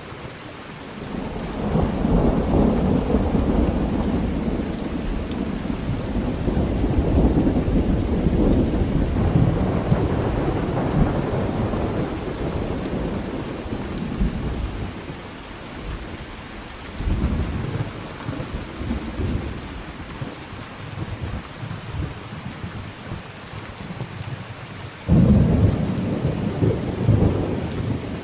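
Thunderstorm with steady rain and rolling thunder. One long rumble swells and fades over the first half, another rolls in about two-thirds of the way through, and a sudden louder thunderclap breaks near the end.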